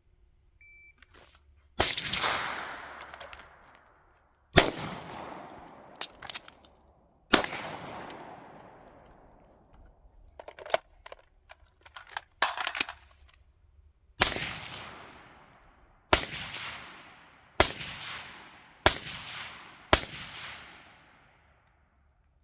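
A string of about nine gunshots from a firearm, fired at an uneven pace with the last few coming faster. Each shot trails off in a long echo, and fainter clicks and knocks fall between some of them.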